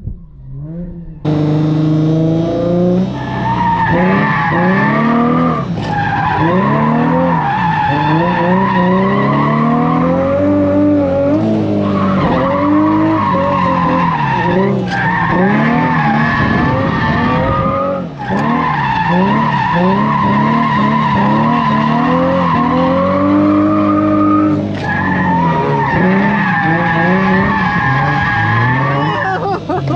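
Turbocharged Nissan VQ V6 drift car engine revving up and down hard while the tires squeal steadily through the slides, starting about a second in. The engine note breaks off briefly about five times, at throttle lifts or shifts between corners.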